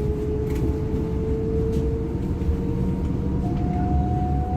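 Interior ride noise of a DB Class 425 electric multiple unit on the move: a low rumble of wheels on the track, with a steady electric-motor whine that rises slowly in pitch as the train gathers speed.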